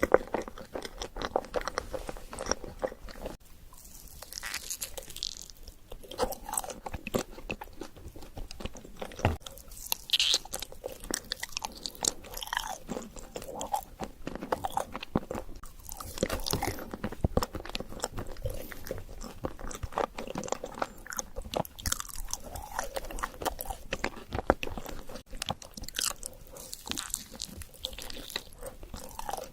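Close-miked biting and chewing of an Oreo chocolate dessert: a continuous run of crisp crunches and chewing sounds.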